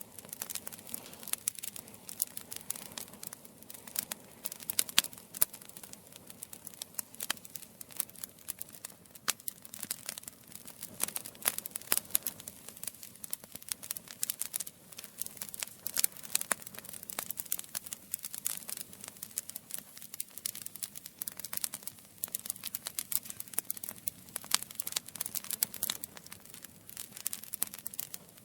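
Campfire crackling: a steady stream of irregular sharp crackles and snaps, some much louder than others, over a soft hiss.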